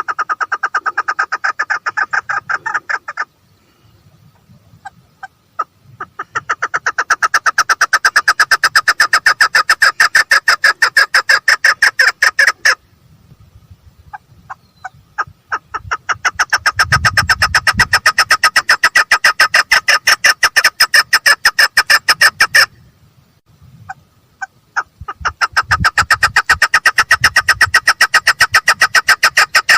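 Female chukar partridge calling: long runs of rapid, evenly repeated notes, several seconds each, broken by short pauses.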